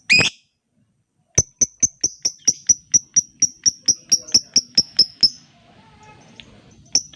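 Lovebird calling: one loud shrill call, then after about a second a fast, even run of sharp high ticking chirps, about five a second for some four seconds, the rapid 'ngetik' call that keepers use as a lure. After a short lull a new run of ticks starts near the end.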